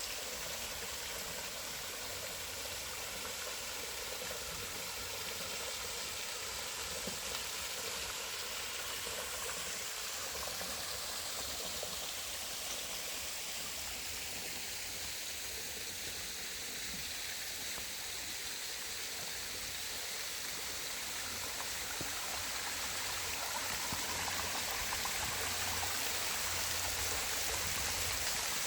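Creek water cascading and splashing over small waterfalls, a steady rushing flow that swells slightly near the end.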